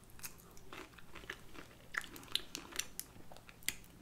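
Close-miked mouth sounds of someone chewing a cocktail shrimp dipped in cocktail sauce: an irregular string of short, sharp wet clicks and smacks.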